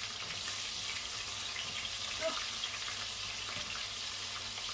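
Garlic and onion frying with a steady sizzle in a pot while a wooden spoon stirs them.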